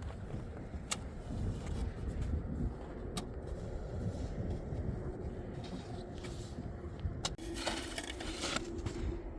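Wind rumbling on the microphone in a snowstorm, with a few sharp knocks. Near the end a steady low hum and a scraping hiss come in.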